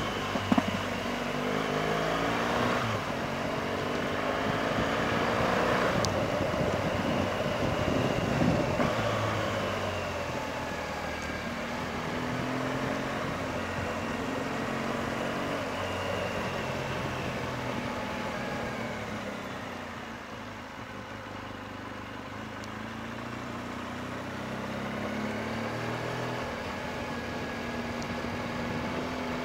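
BMW R1200GS Adventure motorcycle's boxer-twin engine running while riding, its pitch rising and falling again and again as engine speed changes.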